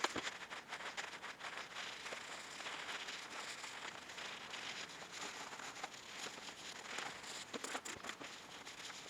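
Continuous scratchy scrubbing and rubbing, full of small clicks, as the grimy outer case of a Performa 580CD is cleaned; a few sharper scrapes come near the end.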